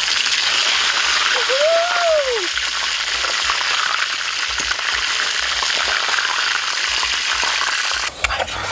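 Thick slices of meat frying in hot oil in a wok over a wood fire: a steady sizzle. About two seconds in, a brief tone rises and falls.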